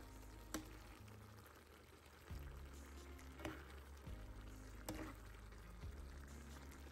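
Metal spoon stirring chicken, peppers and corn in a thick sauce in a frying pan: wet stirring with a few sharp scrapes and clinks against the pan, the loudest about half a second in and again around three and a half and five seconds. Quiet background music runs underneath.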